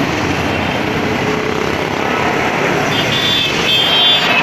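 Many motorcycle engines running together as a column of bikes rides past, a dense, steady mechanical noise.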